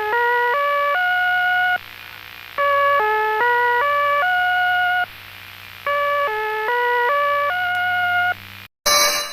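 Emergency alert alarm tone: a short run of pitched tones hopping up and down and ending on a held note, repeated about every three seconds with short pauses, over a steady low hum. Near the end it cuts to a different, ringing alarm tone.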